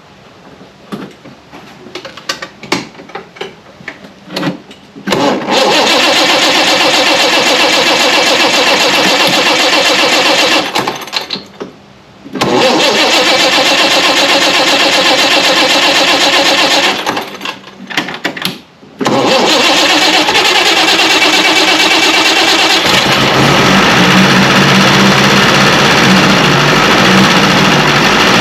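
Engine cranked on its starter in three long attempts with short pauses between, after a few knocks of handling. On the third attempt it fires, about five seconds in, and keeps running with a deeper, steadier note. The timing has just been altered a lot, which is why it is hard to start.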